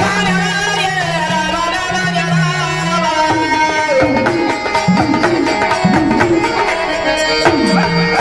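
Traditional Marathi folk devotional music: a tabla-led percussion rhythm under sustained melodic lines, with sliding, wavering pitches in the upper register.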